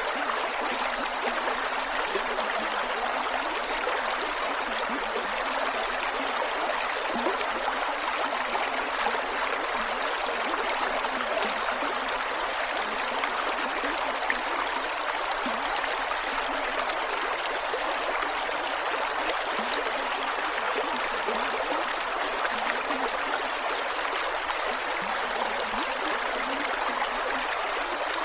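A creek running over rocks, a steady rush of flowing water with small gurgles and trickles.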